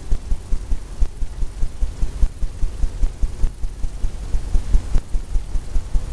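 Rapid rhythmic thumps, about six a second, of a brush dabbing and tapping paint onto a wet oil canvas on the easel.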